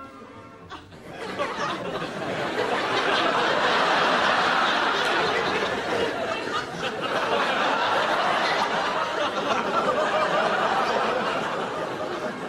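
Studio audience laughing, swelling up about a second in and carrying on as sustained group laughter.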